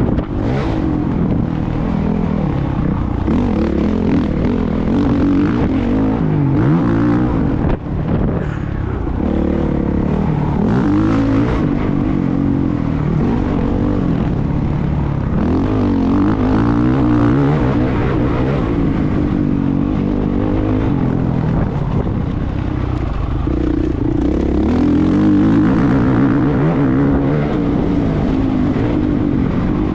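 Motocross motorcycle engine running hard, its pitch rising and falling over and over as it revs up and drops back, with a short break about eight seconds in.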